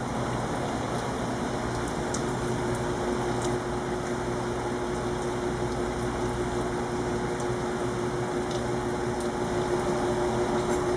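Steady rain falling on a concrete patio, a continuous even patter. A steady low hum joins in about two seconds in.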